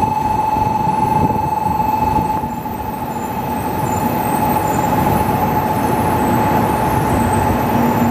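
N700-series Shinkansen train running slowly into the platform: rolling noise with a steady high-pitched whine over it, easing briefly a couple of seconds in and then building again.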